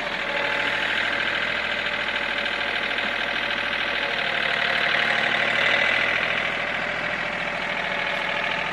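John Deere 4210 compact tractor's three-cylinder Yanmar diesel running steadily as the tractor is driven, the engine note swelling slightly about five to six seconds in.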